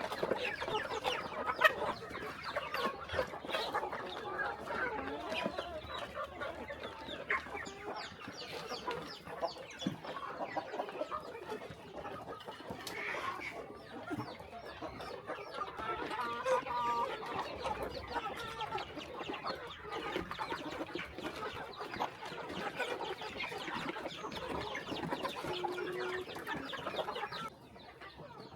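A flock of chickens clucking continuously, many birds calling over one another, with small sharp clicks mixed in. The sound drops away suddenly about a second before the end.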